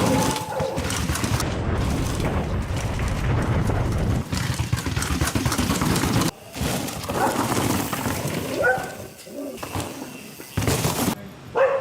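Mountain bike being ridden hard over rough ground: a dense rumble of tyres and rattling bike, with many sharp knocks. It breaks off abruptly about six seconds in, then comes back in choppier, quieter stretches.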